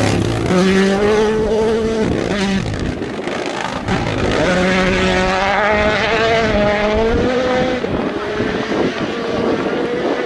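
Rally1 car's turbocharged four-cylinder engine running flat out at high revs. The note holds steady for a second or two at a time and breaks at each gear change, with a sharp crack about four seconds in.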